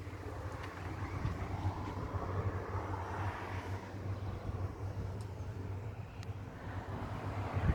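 Ford F1000 pickup truck running, a steady low engine drone with road and wind noise, with a few faint clicks.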